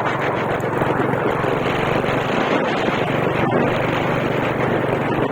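Vehicle engine running steadily on the move, a constant low hum under a loud rushing road and wind noise.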